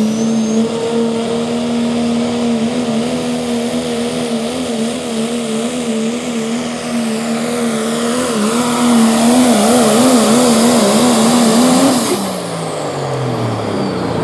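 Pro Stock class turbo-diesel pickup engine held at full throttle while pulling the sled. The note wavers up and down in pitch as the truck bounces and hooks, gets louder toward the end, then drops sharply about twelve seconds in as the driver lifts off at the end of the pull.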